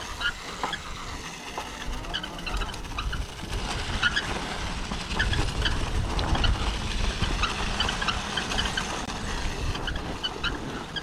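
Dirt bike riding noise: a rumbling wind and tyre haze on a trail, swelling a little in the middle, with short high chirps scattered through it.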